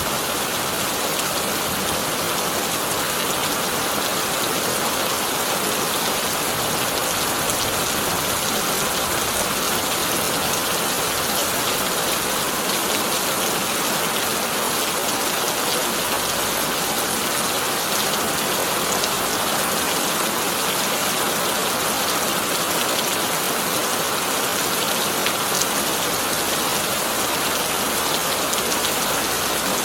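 Heavy rain falling steadily on a corrugated tin roof, a dense even patter of drops with no let-up.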